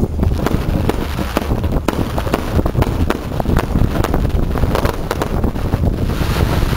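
Fireworks going off in many sharp cracks and bangs, with a denser crackle about six seconds in. Heavy wind buffets the microphone throughout.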